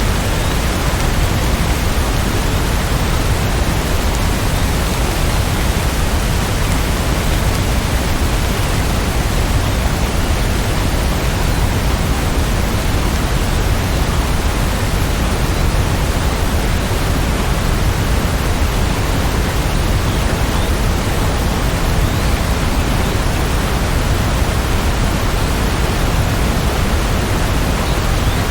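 Steady heavy rainfall, an even unbroken hiss with no separate drops or changes.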